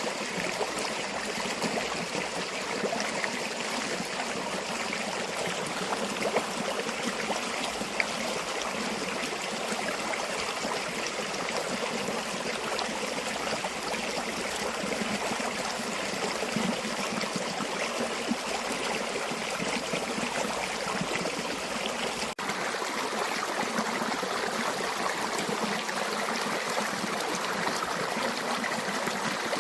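River water flowing steadily, a continuous rushing with small trickles and splashes. It cuts out for an instant about 22 seconds in.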